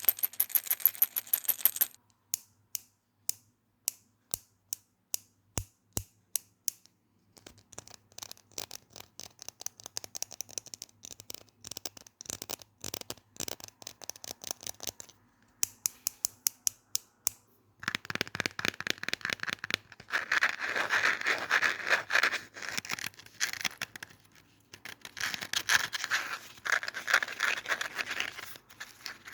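Fast ASMR tapping and scratching on objects. It starts with quick clicking, then a few separate taps, then rapid tapping, and in the second half dense, rhythmic scratching.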